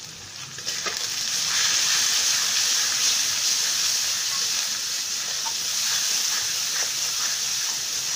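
Ground coriander and other spices frying in hot oil in a steel kadhai, a steady sizzle that swells about a second in as a steel spatula stirs the powder through the oil. This is the masala being roasted (bhuna).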